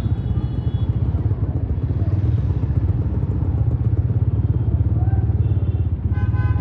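Motorcycle engine running steadily under way, a low continuous drone with rapid firing pulses. A horn beeps briefly near the end.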